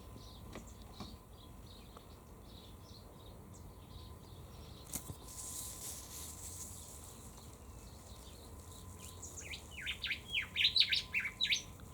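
Rufous whistler singing: a quick run of loud whistled notes near the end, each sliding down in pitch, after a few faint chirps.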